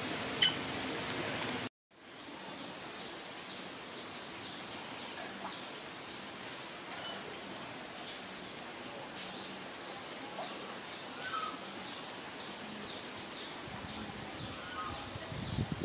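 A short high squeak from an otter at the start. After that comes steady outdoor hiss, with a bird giving a long series of short, high, falling chirps, about two a second.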